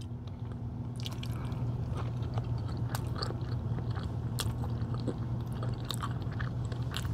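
A person chewing a mouthful of fried egg, with scattered small mouth clicks, over a steady low hum.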